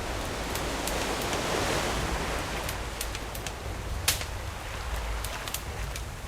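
Campfire crackling with scattered sharp pops, the loudest about four seconds in, over ocean waves; a wave swells and washes in about one to two seconds in, with a low rumble of surf beneath.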